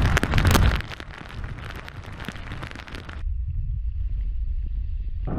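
Storm noise of wind and rain, an even hiss that is loudest in the first second; about three seconds in it cuts abruptly to a duller, low rumble of wind.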